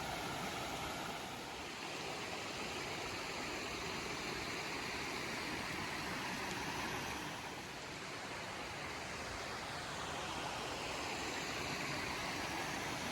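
Brook water rushing over rocks and small falls, a steady, even rush that dips slightly a couple of times.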